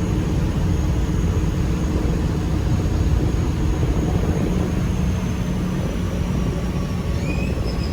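Steady low rumble on board a moving ferry, the ship's engine drone mixed with wind and rushing water from its wake, with a faint high whine running through it.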